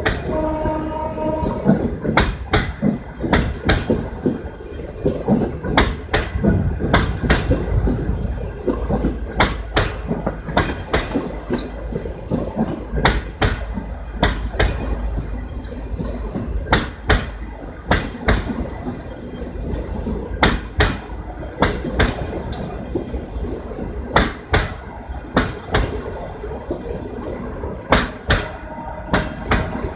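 Passenger train coaches rolling past, their wheels clacking over rail joints over a steady low rumble. A held tone at the start stops about a second and a half in.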